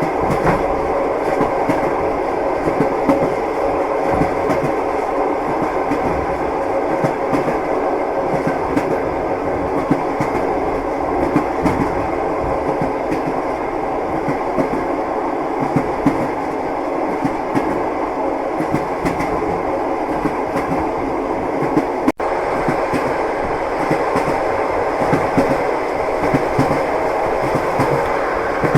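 Passenger train wheels running over the rails, heard from inside the carriage: a steady rumble with the clickety-clack of the wheels. The sound cuts out for an instant about three-quarters of the way through.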